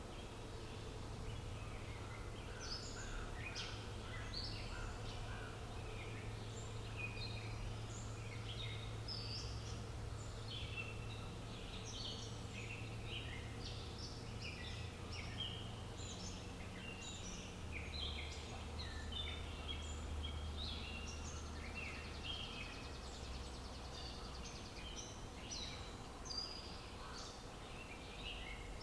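Many small songbirds chirping and twittering without pause, in quick overlapping high notes, over a steady low hum.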